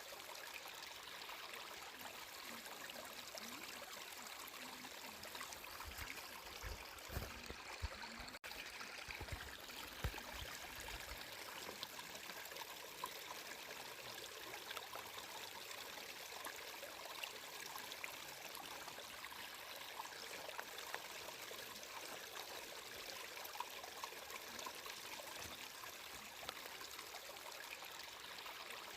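Water flowing steadily, an even rushing wash with no letup, with a few low thumps between about six and eleven seconds in.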